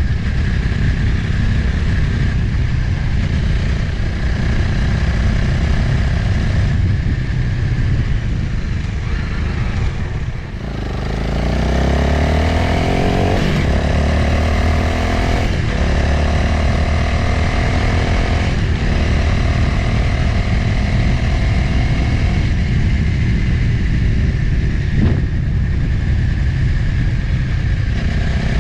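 Motorcycle engine under way, with wind rushing over the camera microphone. About ten seconds in the engine note drops briefly, then climbs in pitch through two gear changes before settling into a steady cruise.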